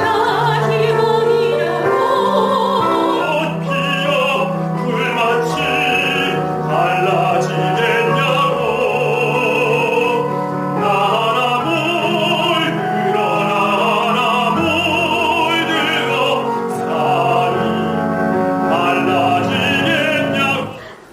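Operatic singing with wide vibrato over sustained instrumental accompaniment, classical in style. The music stops near the end.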